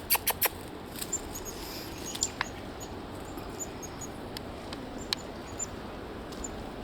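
Red squirrel chattering at the start: a quick run of sharp clicks, its scolding call. Then a few isolated clicks and scattered short, high chirps of chickadees.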